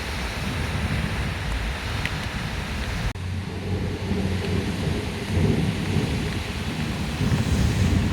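Heavy rain pouring in a thunderstorm, with a deep rolling rumble of thunder under the rain's hiss. About three seconds in, the sound drops out for an instant. After that the rain hiss is duller and the low rumble goes on.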